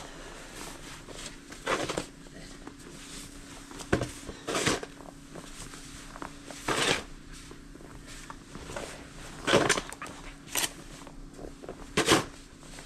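Snow crunching in short, irregular strokes about every one to two seconds, with a steady low hum underneath.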